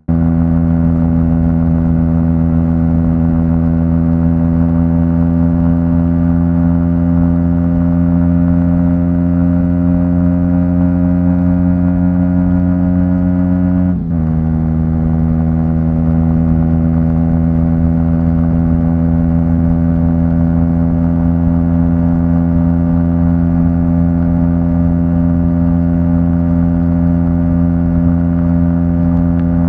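Aprilia SX 125's single-cylinder four-stroke engine running through an Arrow exhaust with no dB killer, loud and steady, its pitch creeping slowly upward. About halfway through the note breaks for a moment and settles a little lower, as on an upshift, then holds steady.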